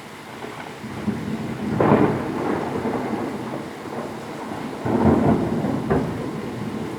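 Heavy rain with thunder rumbling over it, swelling loudly about two seconds in and again about five seconds in.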